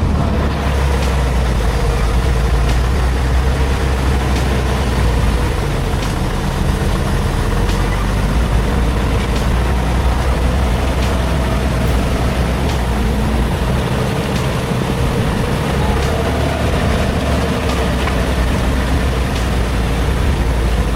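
Heavy truck engine running with a steady, loud low rumble.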